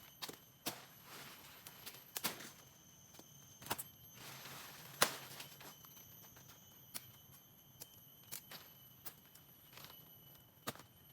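Someone working on a forest floor: scattered snaps and clicks of sticks and leaves, with brief rustling swishes and the loudest snap about five seconds in. Over it runs a steady, faint high-pitched whine.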